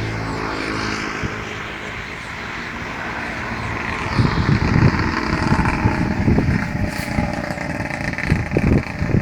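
A combine harvester's engine running steadily, with irregular low rumbles from about four seconds in.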